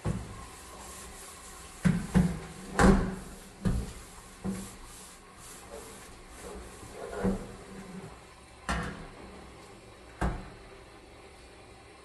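Irregular knocks and clunks of hard kitchen items being handled and set down during stove and oven cleaning: about eight in all, bunched in the first half, then three single knocks spaced out.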